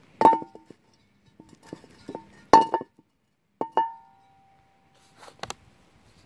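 Metal cookware clanking as a Dutch oven is handled at the campfire: a few sharp metallic knocks with a ringing note. The loudest comes about two and a half seconds in, and the last rings on for about a second, followed by a brief rustle.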